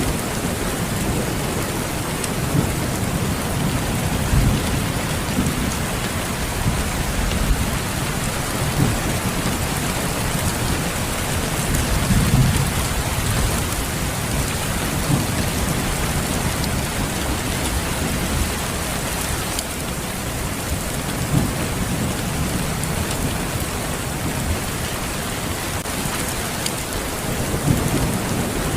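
Steady rain falling, an even hiss, with low rumbles swelling up a few times.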